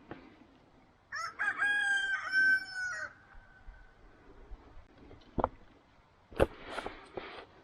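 A rooster crows once, a single long call lasting about two seconds. A few seconds later come two sharp knocks, the second one the loudest sound here, followed by a brief rustle.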